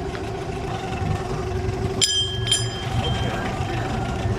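A boat engine running steadily with an even hum. About two seconds in, two sharp metallic clinks ring out about half a second apart.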